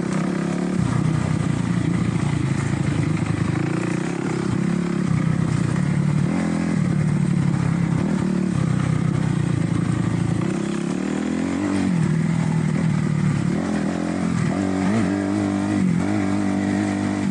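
2008 Kawasaki KX250F's single-cylinder four-stroke engine running under riding load, its revs rising and falling as the throttle is opened and closed, with a longer climb about two-thirds of the way through.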